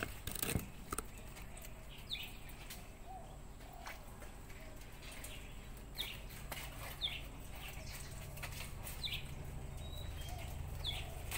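A small bird chirping nearby: short, high, falling chirps about every one to two seconds. Scattered light clicks and rustles, loudest in the first second, and a faint low hum lie under the chirps.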